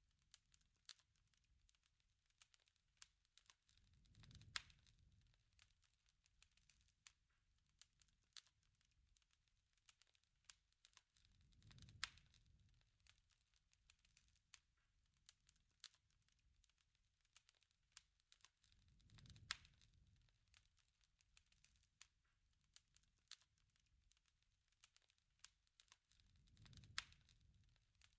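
Faint campfire crackling: a steady scatter of small pops and snaps, with a soft low rush of flame about every seven or eight seconds, each carrying a louder pop.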